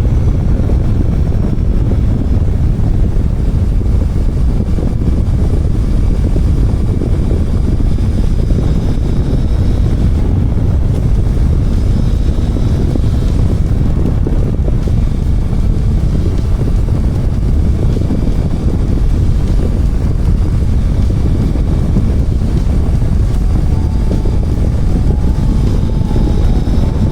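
Motorcycle on the move: steady wind rush over the microphone with the engine running beneath it.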